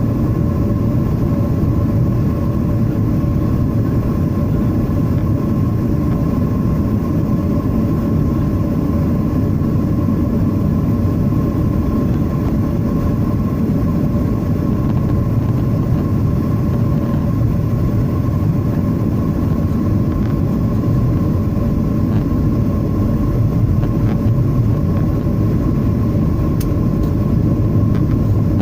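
Boeing 737-800's CFM56-7B turbofan engines running steadily in flight: a constant low rumble with a steady hum and a fainter whine held through it.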